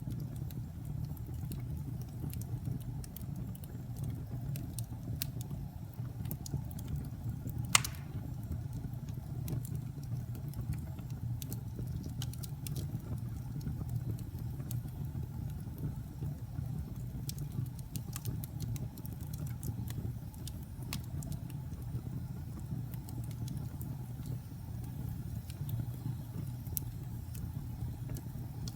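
Campfire burning: a steady low rumble of flames with scattered crackles of wood, and one sharp pop about eight seconds in.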